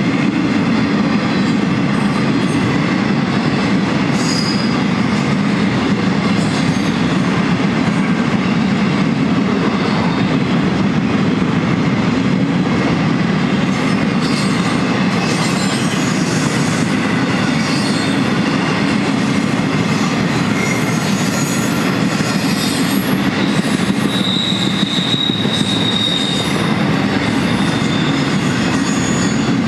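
Intermodal freight cars, trailers on flatcars and then double-stack container wells, rolling past: a steady loud rumble of steel wheels on rail. Brief high-pitched wheel squeals come and go, and one held squeal lasts about two seconds near the end.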